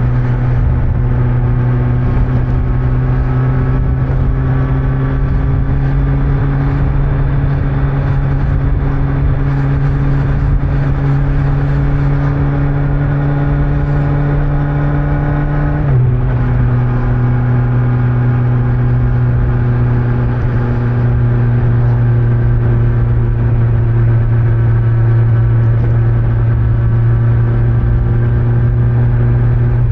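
Kawasaki Z900 inline-four with stock exhaust under way, its note climbing slowly, then dropping suddenly about halfway through at an upshift and holding steady afterwards. Low wind and road noise underneath.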